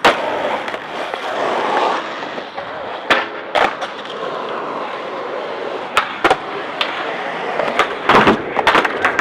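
Skateboard rolling with a steady rumble, broken by sharp clacks of the board striking and landing, about a second in, twice near the middle and in a quick cluster near the end.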